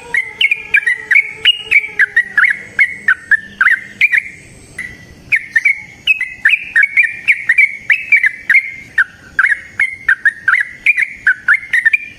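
Yellow-vented bulbul singing its long rapid song: a quick run of short, sharp chirpy notes, several a second, with a short pause about four seconds in.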